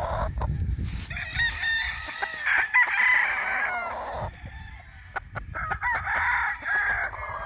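Gamefowl roosters crowing in two bouts, one about a second in and another near the end, with clucking and a few short knocks between.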